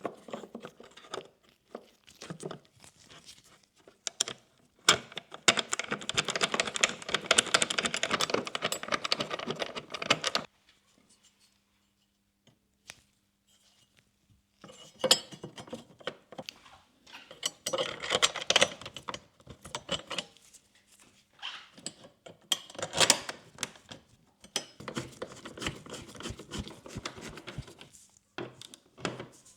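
Hand work on small parts and tools: clicking, clinking and rustling in bursts, with a longer stretch of dense rattling and rustling from about five to ten seconds in, a pause of a few seconds, then more bursts of handling.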